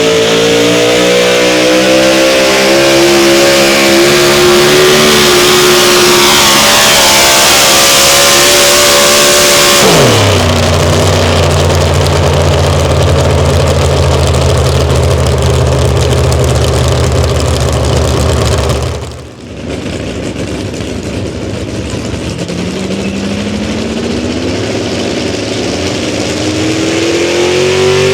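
Pulling-competition engine running at high revs under full load, then dropping sharply about ten seconds in to a steady low idle. After a brief break, an engine revs up again, rising steadily in pitch toward the end.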